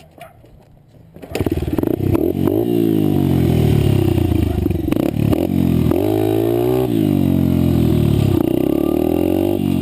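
Honda CRF80 dirt bike's small four-stroke single-cylinder engine, coming in suddenly about a second in, then revving hard, its pitch climbing and falling back several times as it pulls through the gears.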